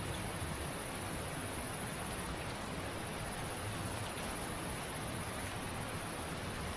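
Insects keeping up a steady high-pitched drone over an even background hiss.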